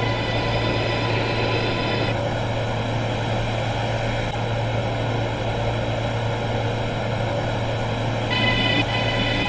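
R143 subway train running: a steady low hum and rumble of the running gear, with a cluster of high, steady electric tones from the propulsion equipment that cut out about two seconds in and return near the end.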